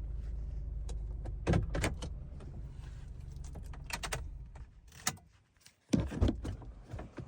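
Parked car's engine idling, then switched off a few seconds in, with keys jangling and the clicks and knocks of a car door being opened and shut.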